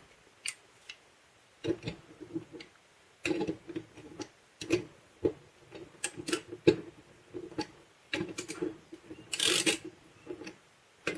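Irregular clicking and short plastic rattles as a 3M H180 tape gun is handled and reassembled, its bolt being threaded back in. One longer, louder rasping burst comes about nine seconds in.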